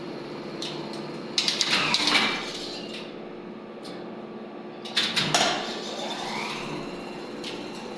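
Soviet KMZ elevator machinery: an electric motor's steady hum, broken twice by a clatter of sharp clicks, about a second and a half in and again at five seconds, each with a gliding whine; after the second, the whine rises in pitch.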